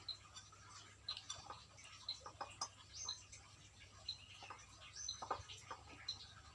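Faint, irregular clicks and cracks of a dog crunching and chewing raw quail, with a few short, high, rising chirps in between.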